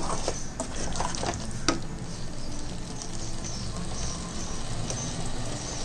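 Chicken in a thick masala sizzling as it fries in an aluminium pressure-cooker pot, a steady hiss. A wooden spatula stirs it, scraping and knocking against the pot several times in the first two seconds.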